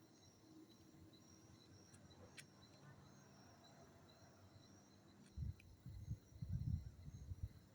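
Insects chirping faintly in a steady repeating pattern. From about five seconds in come irregular bursts of low rumbling noise, louder than the chirping.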